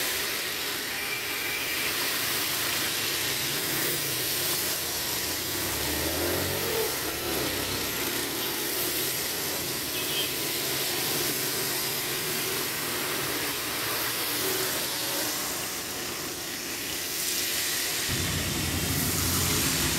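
Heavy rain falling with a steady hiss, with cars driving past through water on the wet road. A low vehicle rumble swells briefly about six seconds in and comes in more strongly near the end.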